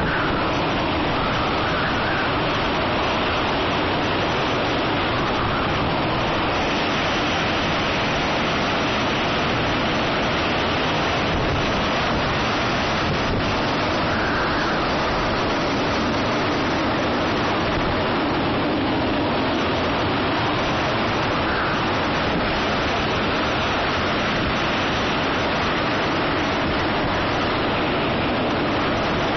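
Typhoon wind and rain, a loud, steady rushing with no let-up, with a few faint, brief whistling rises in the gusts.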